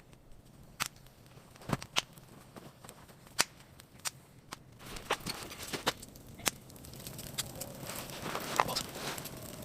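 Irregular sharp clicks and knocks, one every half second to second or so, with a rustling noise building up over the last couple of seconds.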